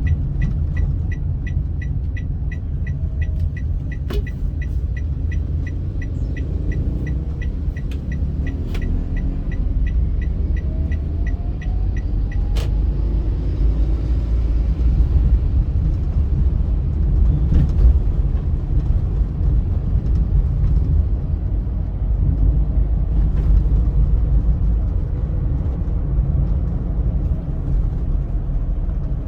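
Steady deep road and engine rumble of a car driving at speed, heard from inside. For the first dozen seconds a fast, regular ticking runs nearly three times a second, then stops.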